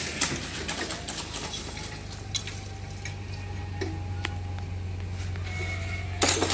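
Train passing the level crossing: a steady low hum with many metallic clicks and clanks, brief thin squeals, and a loud burst of rail noise at the start and again near the end.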